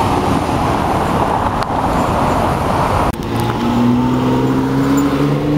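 Supercar engines: a loud rushing engine and exhaust noise for about three seconds, then, after an abrupt change, an engine pulling with a steady tone that slowly rises in pitch as the car accelerates.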